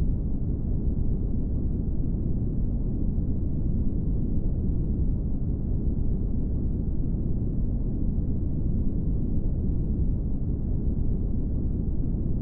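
Steady brown noise: an even, deep rushing hiss with most of its weight in the low end and almost nothing in the highs, unchanging throughout.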